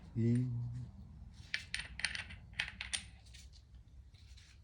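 Small metal parts of a Honda Dax engine clinking and tapping against each other as it is taken apart, a cluster of sharp, lightly ringing tinks in the middle, with a brief low vocal hum near the start.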